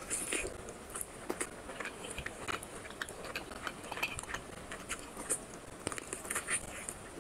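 Close-miked eating sounds of a person biting and chewing curried chicken leg meat: a steady run of wet mouth clicks, smacks and crackles.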